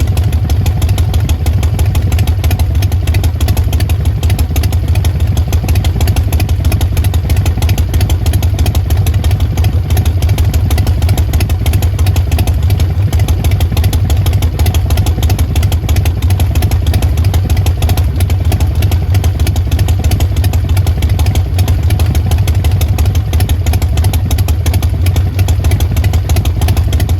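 Harley-Davidson Sportster XL1200X Forty-Eight's air-cooled 1200 cc V-twin running steadily at constant speed through Vance & Hines Short Shots aftermarket exhaust pipes, with a loud, deep exhaust note.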